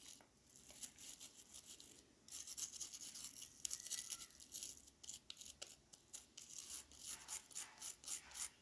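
Small brush scrubbing the contact tracks of a digital multimeter's circuit board: faint, quick, scratchy strokes in uneven runs, working off the dirt and oxide built up on the contacts.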